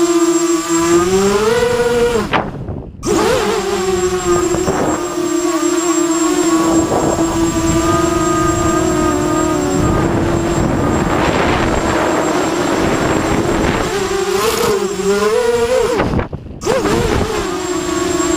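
QAV250 race quadcopter's brushless motors whining at a steady pitch, rising twice with a burst of throttle, each rise ending in a brief break where the sound drops out, about two and a half seconds in and near the end.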